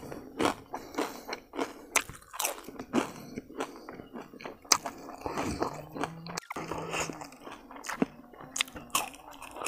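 A person chewing crispy fried food, with irregular crisp crunches.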